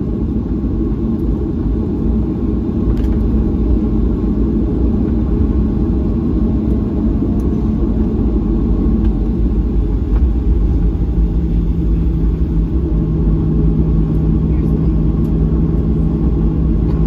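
Airliner cabin noise while taxiing after landing: a steady low rumble of the engines, with a steady low hum joining about ten seconds in.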